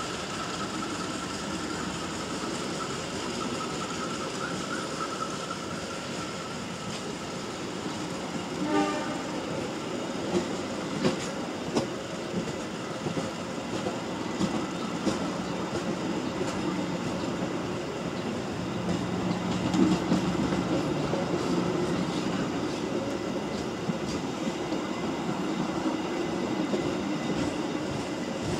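Passenger train coaches rolling past with a steady rumble, their wheels clacking over rail joints. The clacks come irregularly from about nine seconds in.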